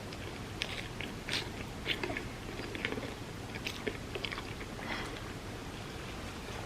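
A person biting and chewing crunchy food, with sharp crunches scattered through the first five seconds that thin out to quieter chewing near the end.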